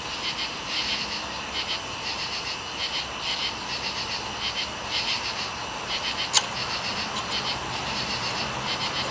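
Steady outdoor chorus of small calling animals: rapid, high chirping pulses repeating without a break. One sharp click about six seconds in.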